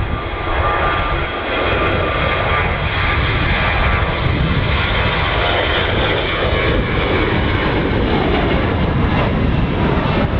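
Jet airliner's engines passing close by, a loud, steady rushing noise with a faint whine in it that builds slightly a little over a second in and then holds.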